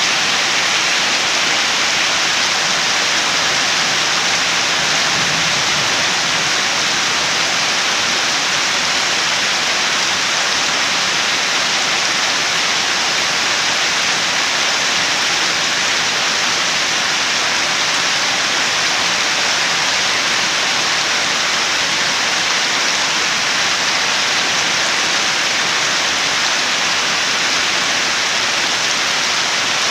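Steady heavy rain, a continuous even hiss of falling water with no breaks or distinct drops standing out.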